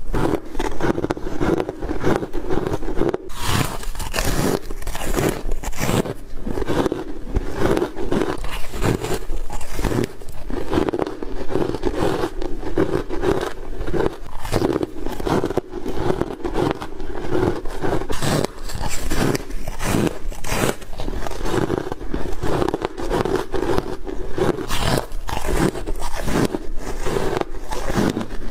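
Ice being bitten close to the microphone: repeated crunching, crackling bites in quick succession.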